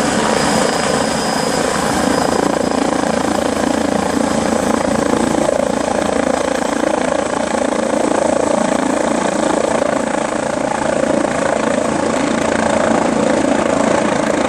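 MBB Bo 105 helicopter, with its twin turboshaft engines and rotor, running loud and steady throughout.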